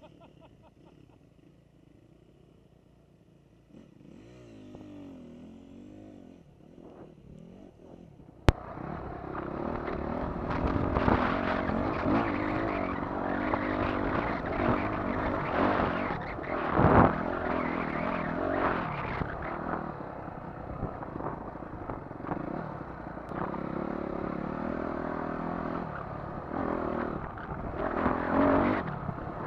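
Dirt bike engine: faint and wavering at first, then after a sharp click it is loud and close, revving up and down with the throttle as the bike is ridden.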